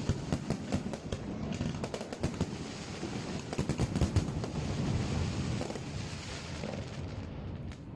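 Fireworks going off in rapid succession: a dense run of bangs and crackles, thickest in the middle and thinning out near the end.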